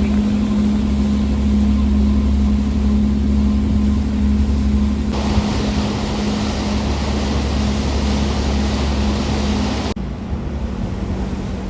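Passenger ferry's engine droning with a steady deep hum, under a rush of wind and water that grows stronger about halfway through. The sound changes abruptly near the end.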